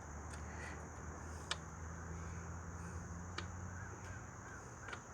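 Three sharp clicks, about a second and a half apart, of a bolt and small parts being handled while fitting them by hand, over a steady high insect drone and a low hum. A bird calls a few times near the end.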